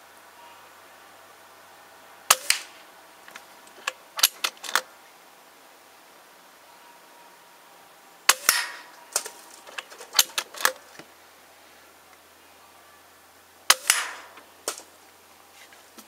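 Three shots from a BSA R10 .177 pre-charged pneumatic air rifle, sharp cracks about six seconds apart, each followed by a few smaller sharp clicks and knocks.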